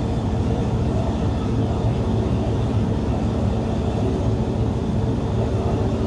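Car ferry's engines running with a steady low drone and hum, heard on the vehicle deck while the vessel docks.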